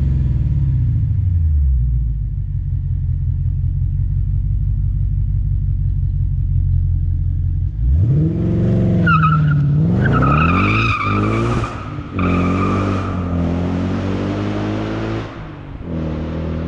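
Ford Mustang R-SPEC's supercharged 5-litre V8 settles from a rev into a steady idle. About eight seconds in it revs up and launches hard, with a high squeal from the spinning rear tyres. It pulls away with the revs rising and breaking at each gear change, growing fainter near the end.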